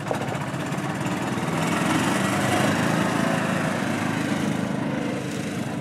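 A petrol engine running with a rough, buzzy note, getting louder toward the middle and then fading off.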